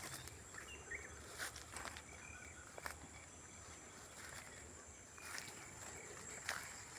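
Crickets trilling steadily, a high constant drone, with short bird chirps here and there and a few sharp clicks.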